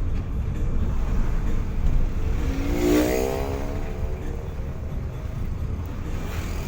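Steady low road and engine rumble of traffic, with another vehicle passing close by about three seconds in.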